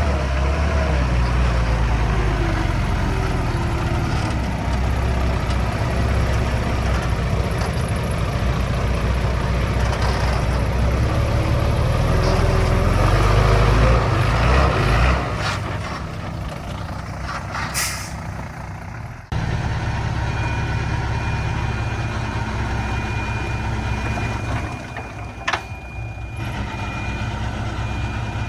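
Heavy diesel machinery, a bulldozer and a stuck truck, running hard with wavering engine pitch, then easing off about halfway through. After an abrupt change a little later, the engines run on more quietly under a steady high tone.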